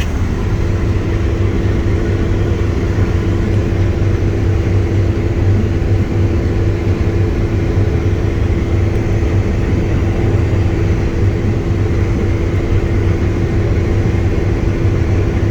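Combine harvester running steadily while harvesting, heard from inside the cab: a constant low engine drone with a steady mid-pitched hum over it.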